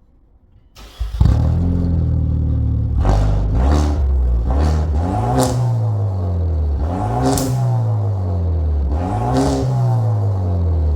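Kia Stinger 2.0 turbo four-cylinder engine, breathing through a custom electronic valve exhaust, starting up about a second in and then idling between about five short revs, each rising and falling in pitch.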